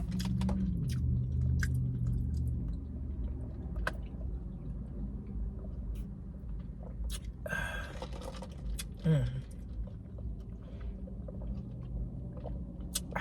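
A person chewing food close to the microphone, with a few small clicks and a brief rushing noise about seven and a half seconds in, over a steady low hum.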